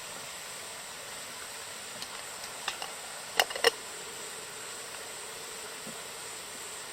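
Steady rush of falling water, with a few sharp knocks about halfway through, the two loudest close together.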